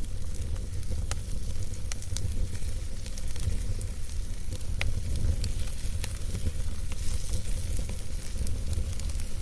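Campfire burning with scattered sharp crackles and pops, one louder about halfway through, over a steady low rumble and hiss.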